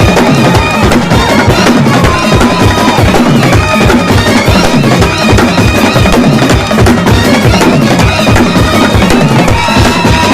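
Kerala festival brass band playing: wind instruments hold a melody over loud, fast, dense drumming with bass drum and snare.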